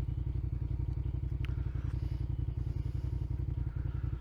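Motorcycle engine running at a steady cruising speed, its low, even exhaust pulse unbroken.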